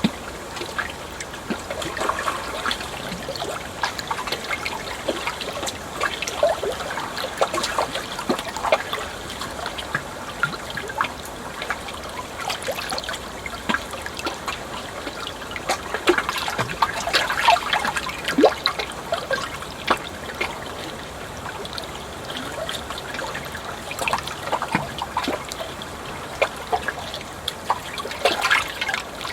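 Water trickling and burbling steadily, with many small gurgles and splashes throughout.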